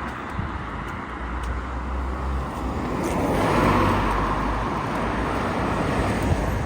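Road traffic: a car passing by, its engine and tyre noise swelling to its loudest about three and a half seconds in and then fading.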